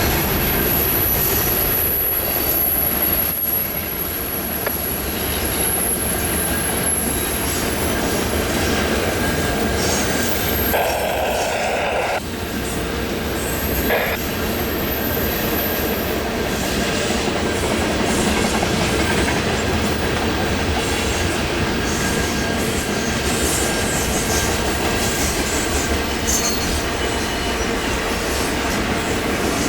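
Cars of a mixed freight train rolling past on a curve, wheels rumbling steadily. A high-pitched wheel squeal comes and goes as the flanges grind against the rail on the curve.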